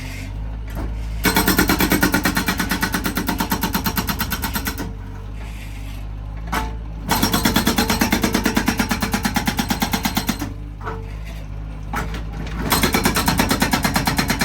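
Felix FX-68 hydraulic breaker on a Bobcat S130 skid steer hammering in three bursts of rapid blows, each a few seconds long. Between the bursts the skid steer's diesel engine runs steadily.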